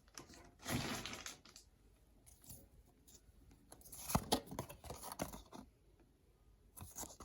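Foil wrapper of a Pokémon card booster pack being torn open and crinkled by hand, in a few short rustling spells with pauses between.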